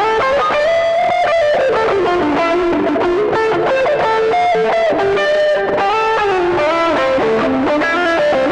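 Electric lead guitar playing a melodic solo line through effects, its notes sliding and bending between pitches.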